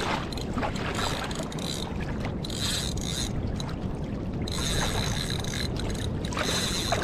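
Wind and water noise around a fishing kayak at sea, with a fishing reel's drag buzzing in several short spurts as a hooked fish pulls line off against it.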